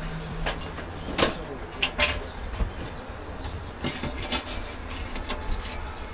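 Scattered knocks, clicks and scrapes of cooking utensils, a spatula working shaobing flatbreads and their filling, over a steady low background rumble.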